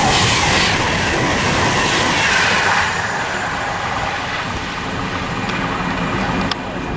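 Virgin Trains Class 390 Pendolino electric train passing at speed on the near line, a loud rush of wheel and air noise that fades over the first three seconds as it draws away.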